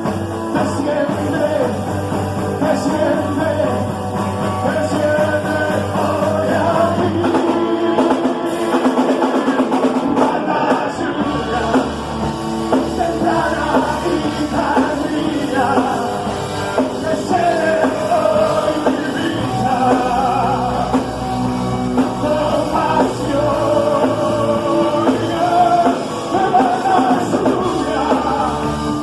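Worship band music with singing over a full band accompaniment.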